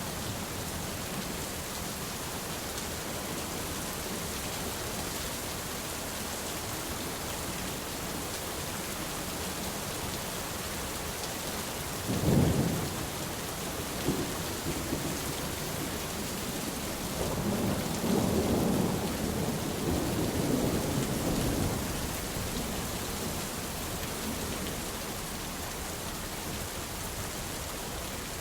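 Steady rain falling, with a sudden clap of thunder about twelve seconds in and a longer rolling rumble of thunder a few seconds later.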